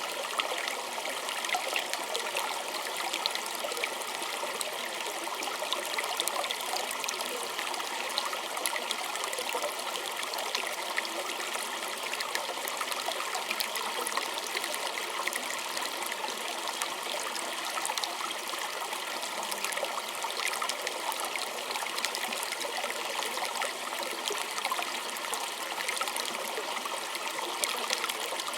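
Small creek trickling and gurgling steadily over stones, a continuous bright splashing with fine droplet detail and little low rumble.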